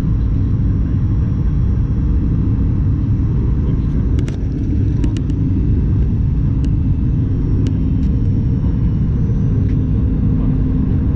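Steady low rumble of a Boeing 737 MAX 8 cabin, the engines and airflow heard from a window seat, with a few faint clicks in the middle.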